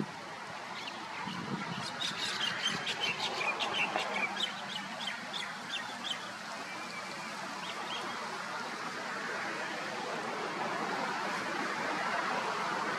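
Birds calling: a quick run of short, high chirps for a few seconds, over a steady noisy background.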